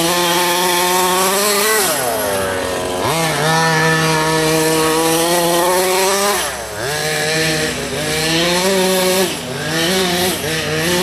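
Radio-controlled car's motor revving hard, its pitch climbing and then dropping sharply three times as the throttle is let off and opened again.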